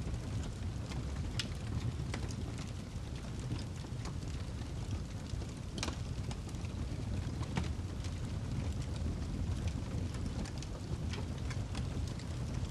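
Wood fire burning in a fireplace: a steady low noise of the flames with irregular sharp crackles and pops from the burning log, one louder pop about six seconds in.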